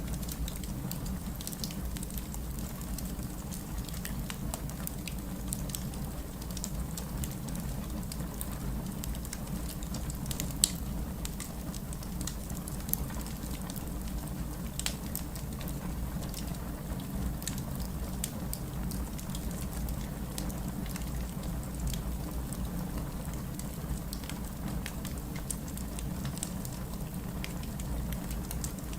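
Steady rain falling, mixed with a crackling wood fire in a fireplace, its scattered pops heard over the rain. Two sharper pops come a little past a third of the way in.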